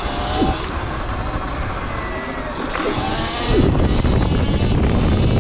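Wind buffeting the microphone while riding a Sur Ron electric dirt bike, a dense low rumble with no engine note. It grows louder about three and a half seconds in.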